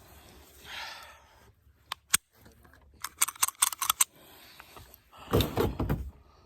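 Handling noise: a single sharp click, then a quick run of small metallic clicks and rattles like keys jangling, then a louder rustling knock near the end.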